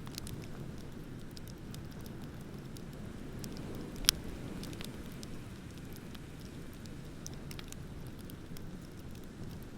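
Wood bonfire crackling, with scattered small pops and one sharp, loud pop about four seconds in, over a steady low rush of ocean waves.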